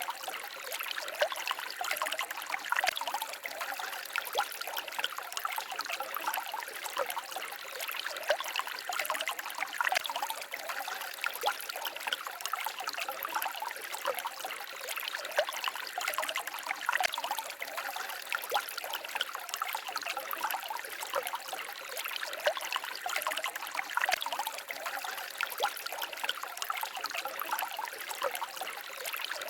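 Stream water babbling and trickling steadily, an even splashing rush with no letup.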